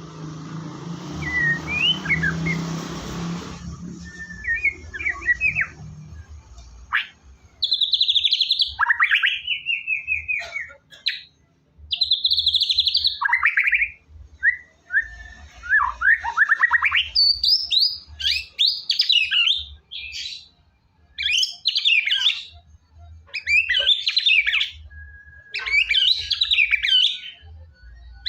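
White-rumped shama (murai batu) singing loud phrases separated by short pauses: clear whistled notes and downward-sweeping trills, turning to rapid, dense warbling phrases in the second half. A noisy hum fills the opening few seconds before the song starts.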